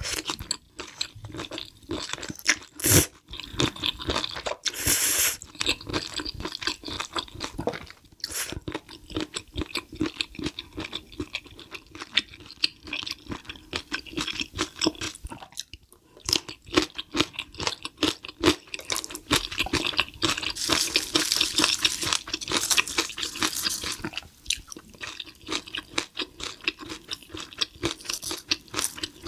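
Close-miked eating of spicy stir-fried cuttlefish with noodles and kimchi: wet chewing, crunchy bites and noodle slurping, with many quick clicks and smacks throughout, loudest about three seconds in and in a denser run of crackling from about 19 to 24 seconds.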